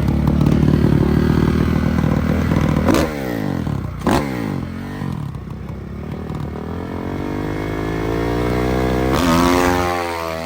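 Dirt bike engines running at high revs and passing close by at speed: two go past about three and four seconds in, each with a sharp drop in pitch, and another engine climbs in pitch and passes near the end.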